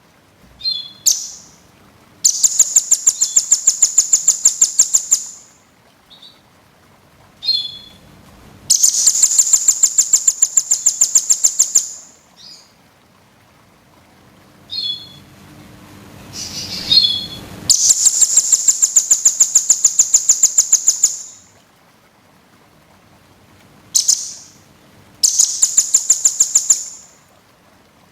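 Small songbirds' high-pitched song: four long, rapid trills of evenly spaced notes at about eight a second, each lasting two to three seconds, with short chirps between them. It is a masteran, a repeated bird-song recording used to teach songbirds new phrases.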